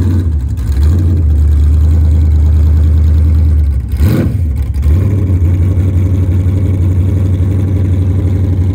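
Pro street 1977 LX Holden Torana SLR 5000 engine idling loudly with an even, pulsing beat, blipped briefly about four seconds in before settling back to idle.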